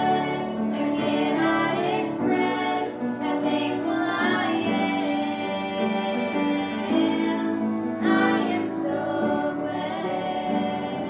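Voices singing a church song with instrumental accompaniment.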